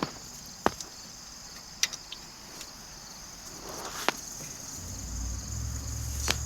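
A few light, sharp clicks of tools and metal parts being handled while a compression tester's adapter is fitted into a spark plug hole, over steady high-pitched insect chirring. A low rumble comes in about five seconds in.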